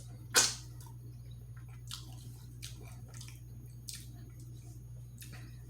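A person eating close to the microphone: chewing with scattered mouth clicks, the loudest and sharpest about half a second in, over a steady low electrical hum.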